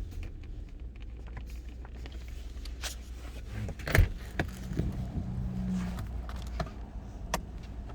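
Lexus GX 470's 4.7-litre V8 running, heard from inside the cabin as a steady low hum, with scattered clicks and a sharp knock about four seconds in.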